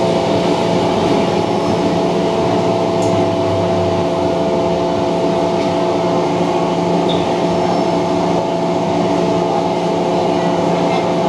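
Inside the carriage of an MTR Metro-Cammell electric train running slowly into a station: a steady hum of several tones from the train's equipment over the rolling noise, with a lower rumble that fades about four seconds in.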